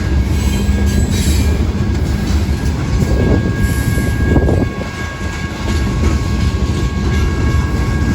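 BNSF freight train, led by a lone GE ES44DC locomotive, passing close: a steady heavy rumble of wheels on rail with a thin, steady high squeal. The rumble dips briefly about five seconds in.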